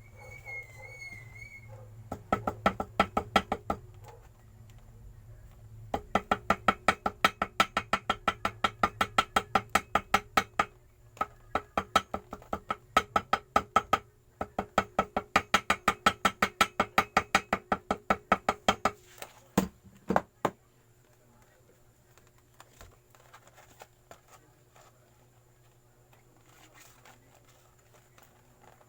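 A small hammer tapping rapidly on gasket paper laid over a motorcycle engine case, about four light ringing taps a second, in several long runs with short pauses and then a few single knocks; this is how the gasket is cut to the shape of the case edge. A bird chirps briefly at the start.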